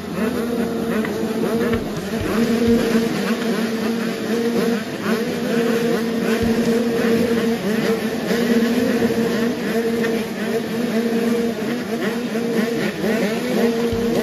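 Several 85cc two-stroke motocross bikes racing, their engines revving up and down over one another without a break.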